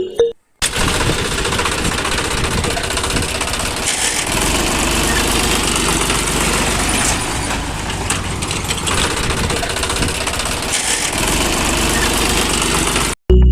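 A machine running steadily with a rapid rattling clatter. It starts abruptly about half a second in and cuts off just before the end.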